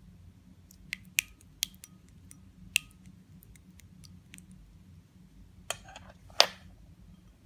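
Clear yellow slime being pressed and pulled: a handful of sharp sticky clicks and pops, then a short crackly squelch about six seconds in, the loudest sound.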